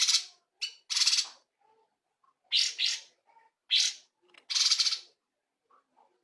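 Cungkok songbird calling in about seven short, loud, rasping bursts, some in quick pairs, over the first five seconds.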